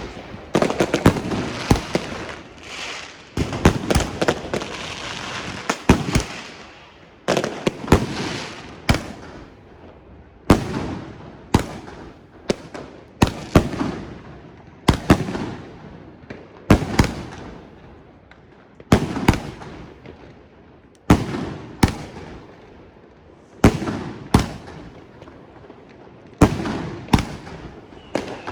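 Fireworks going off: a dense run of bangs over the first six seconds, then single loud bangs about every second and a half, each trailing off in an echoing tail.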